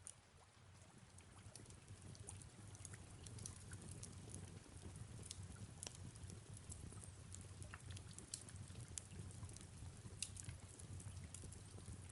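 Faint fireplace crackling with soft rain falling: scattered sharp pops over a low, steady rumble.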